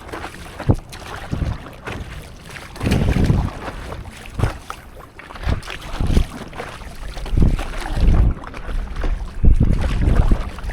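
Water splashing and sloshing around a stand-up paddleboard as it is paddled on the sea, in irregular surges, with wind buffeting the microphone.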